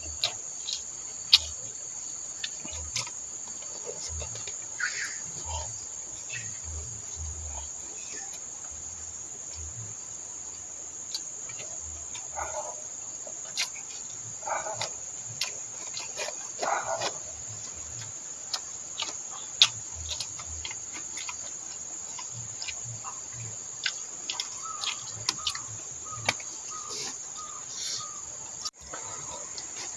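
Steady high-pitched insect chorus from the plantation, with scattered close clicks and soft knocks from eating. Near the end a bird calls a quick run of about eight repeated notes.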